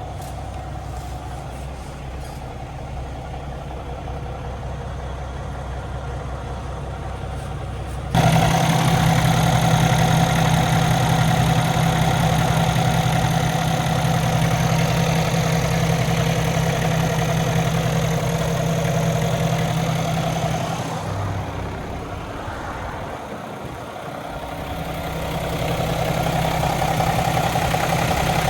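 Cummins X15 diesel engine of a semi-truck idling steadily. The sound jumps sharply louder about eight seconds in, dips for a few seconds near the end, then comes back up.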